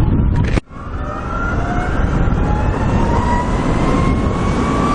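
Electric motorcycle's motor whining and rising slowly in pitch as it gathers speed, over heavy wind rush. The sound drops out briefly about half a second in.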